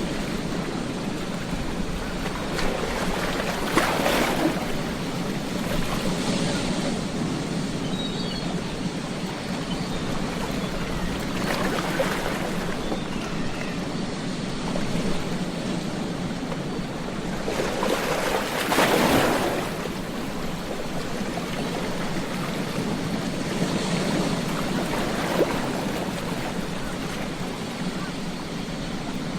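Ocean waves breaking and washing up a beach, a continuous rush of surf that swells into a louder surge every six to eight seconds, four times, the strongest about two-thirds of the way through.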